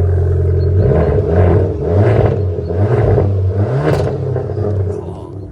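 2018 Abarth 595's 1.4 T-Jet turbocharged four-cylinder engine, with a Magneti Marelli exhaust, idling and then revved in four quick throttle blips, each rising and falling in pitch, before dropping back toward idle.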